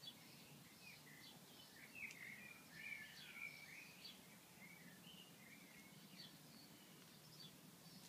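Small songbirds chirping and singing faintly, a run of quick short notes that is busiest about two to three and a half seconds in, over a faint low steady hum.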